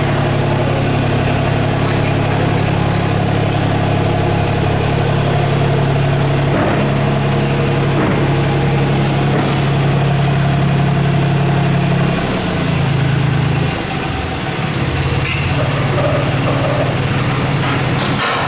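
An engine idling steadily with a low, even hum; its note shifts down briefly about twelve seconds in, then settles again.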